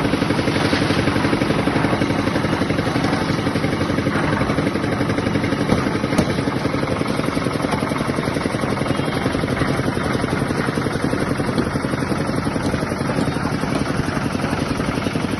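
Engine powering a construction site's mixer and material lift, running steadily at a constant speed with an even, rapid beat.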